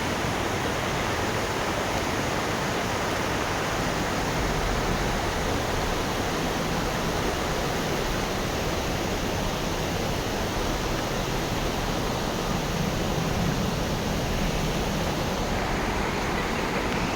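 Steady rushing of fast-flowing river water, an even hiss with no breaks.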